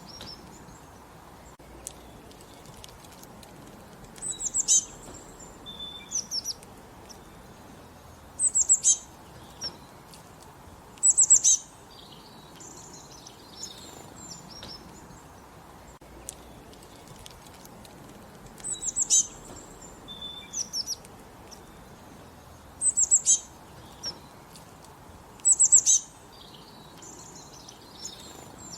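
Songbirds singing, one bird repeating a short, loud, high-pitched chirping phrase every few seconds, with softer calls between, over a steady background hiss.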